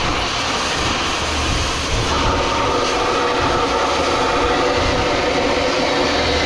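Angle grinder cutting steel off stainless steel scrap: a steady, loud grinding with a whine that grows stronger about two seconds in.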